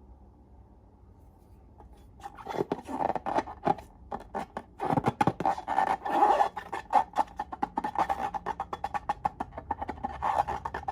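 Slime being squished and poked by hand, giving a dense, irregular run of wet clicks and pops that starts about two seconds in.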